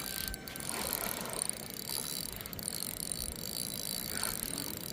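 Fishing reel being cranked to reel in a hooked fish, its gears and spool turning.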